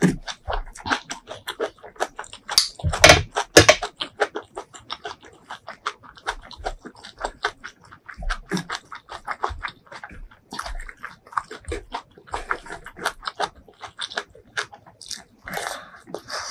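Close-miked wet chewing and lip smacking of a mouthful of spicy beef tripe curry and rice, a rapid run of moist clicks with the loudest cluster about three seconds in.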